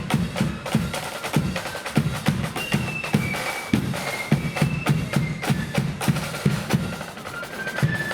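Blood-and-thunder flute band marching: bass drum and snare drums beating a fast, driving march rhythm under massed flutes playing the tune.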